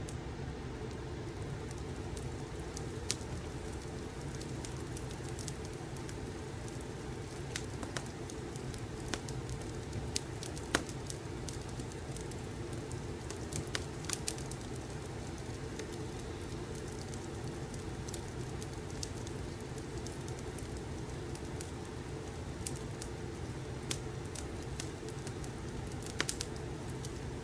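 Wood fire crackling: a steady low rumble with scattered sharp pops, the loudest about eleven seconds in.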